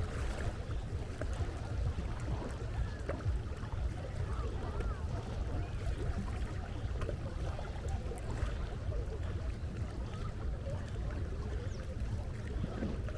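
Seaside ambience: a steady low rumble of wind and water, with faint distant voices over it.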